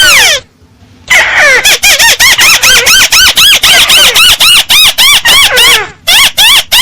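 Recorded calls of the burung tikusan, a paddy-field crake, played loud as a trapping lure. One call, a pause of about a second, then a fast run of shrill, arched notes at about five a second.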